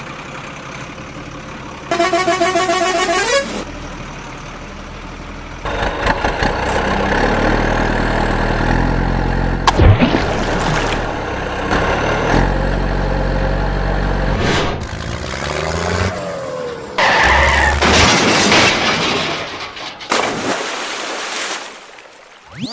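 A sequence of truck sound effects. A horn blares for about a second and a half, then a heavy diesel engine runs for several seconds, its pitch stepping up and down, and near the end comes a loud burst of noise.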